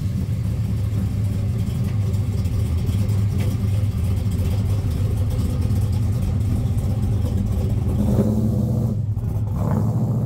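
A race-prepped Chevelle's engine idling steadily just after starting up, with a low, even hum.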